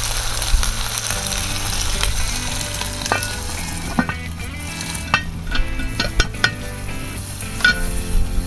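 Wood fire crackling and hissing in a small fire pit, with scattered sharp pops.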